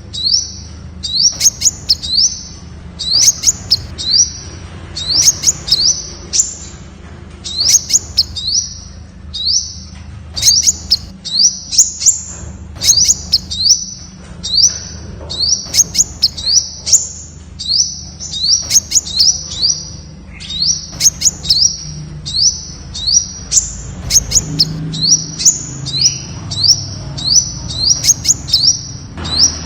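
Temminck's sunbird calling: a loud, unbroken series of short, high notes, each rising in pitch, repeated about one to two times a second with sharp clicks among them.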